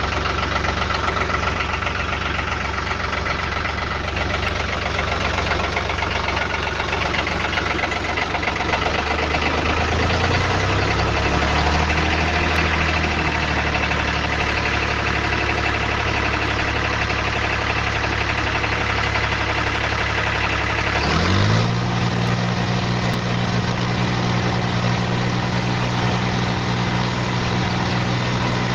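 Tractor engine running steadily, with its speed wavering slightly in the middle and then picking up sharply about three quarters of the way through and holding at the higher speed.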